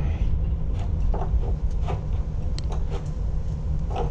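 Handling noise from a phone carried in a pocket: a steady low rumble of fabric rubbing over the microphone, with irregular knocks and scrapes.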